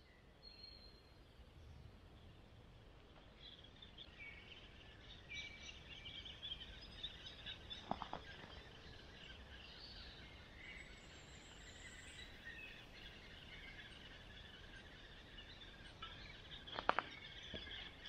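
Birds chirping faintly in the forest canopy: many short high calls overlapping, with a couple of faint clicks about halfway and near the end.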